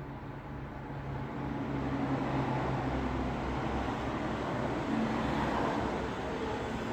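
Road traffic: vehicle engines humming and tyre noise, swelling about a second and a half in as a vehicle passes close.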